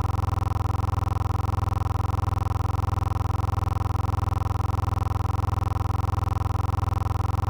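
A steady, unchanging low hum with several higher steady tones over it, fluttering rapidly in level.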